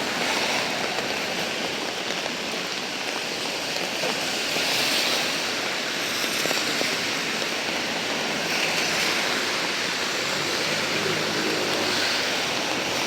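Steady rain, an even hiss of falling water that swells slightly now and then.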